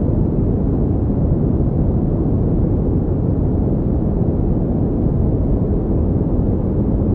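Pink noise, steady and unchanging: a deep, even hiss with most of its weight in the low end and little above it.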